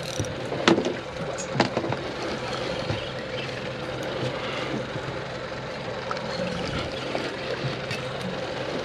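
Boat engine idling with a steady hum and water noise, with two sharp knocks in the first two seconds.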